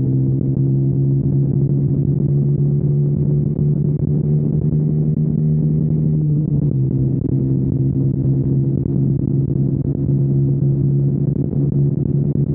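KTM Duke 125's single-cylinder four-stroke engine with a Storm GP aftermarket exhaust, running at near-steady revs while riding, with a small change in pitch about six seconds in. The recording is muffled, with little treble.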